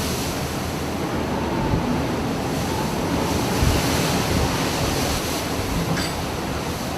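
Storm wind and heavy sea waves, with gusts rumbling on the microphone.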